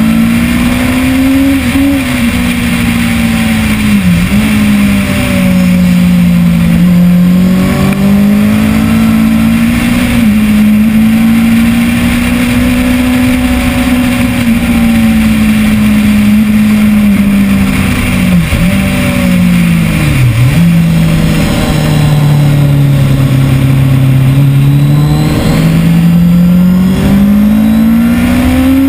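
Kawasaki ZX-10R's inline-four engine running hard on track, its pitch swelling and falling as the bike accelerates and brakes. There are quick sharp dips in pitch at gear changes, about four seconds in and twice more near two-thirds through, and the engine is climbing again at the end.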